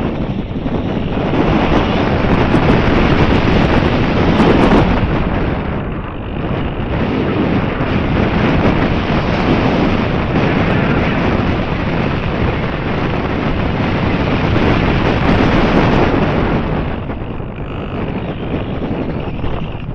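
Wind buffeting the microphone in loud, rolling gusts, easing briefly about six seconds in and again near the end.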